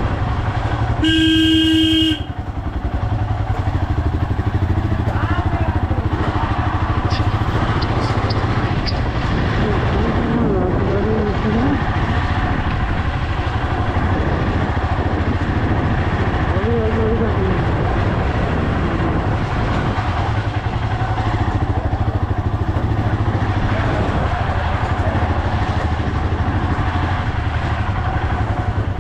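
Motorcycle engine running steadily with road and wind noise while riding. A horn sounds for about a second near the start.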